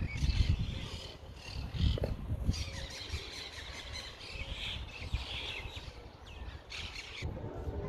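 Small birds chirping repeatedly in the trees, with a few low rumbles near the start and about two seconds in. The chirping stops about seven seconds in.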